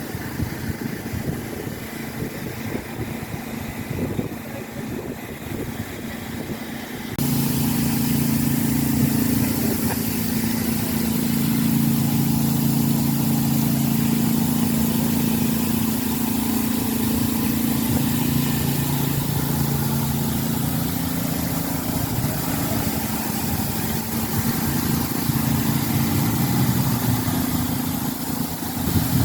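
A steady rushing noise, then after an abrupt cut about seven seconds in, a steady low engine hum.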